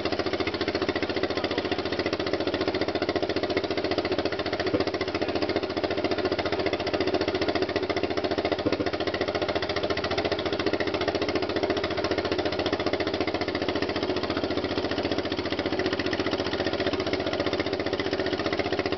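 Deutz MA 611 stationary engine running steadily with a fast, even beat after being brought back to life following 35 years out of use.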